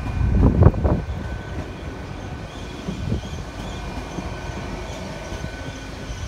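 Great Western Railway Intercity Express Train rolling slowly past at close range, louder in the first second and then steady, with a faint steady high-pitched whine above the rumble.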